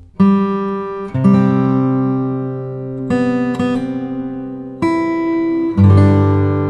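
Background music: an acoustic guitar strumming chords, a new chord struck every one to two seconds and left to ring out.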